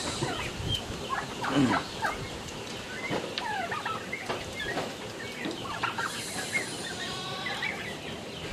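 A flock of poultry, turkeys among them, calling all at once: many short overlapping calls and gobbles, with a louder call about a second and a half in.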